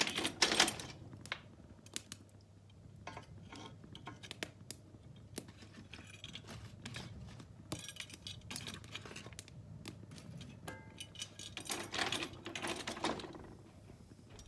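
Lumps of coal clinking and clattering as they are laid onto a newly lit fire in an open fireplace, with scattered small clicks between. Louder clattering right at the start and again near the end.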